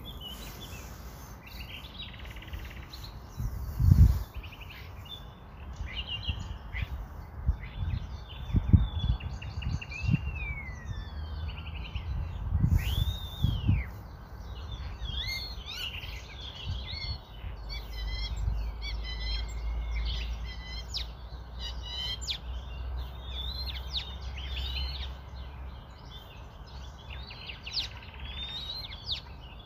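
Small birds chirping and calling over and over, with short rising and falling notes. A few dull low thumps come about four seconds in and again several times between about 8 and 14 seconds, and a low hum sets in about halfway through and fades near the end.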